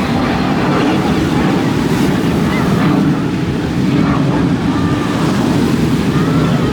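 Steady rushing and buffeting of wind on the microphone, loud and low.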